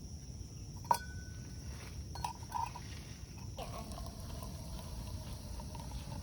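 Metal camp cookware clinking: one sharp clink that rings briefly about a second in, then a few lighter clicks, over a steady high insect drone. From about halfway a faint drawn-out tone sets in.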